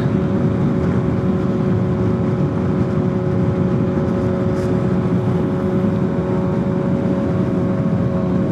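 Kawasaki ZX-6R sport bike's inline-four engine running at a steady cruising speed, its pitch holding level, with a heavy rush of wind and road noise on the helmet microphone.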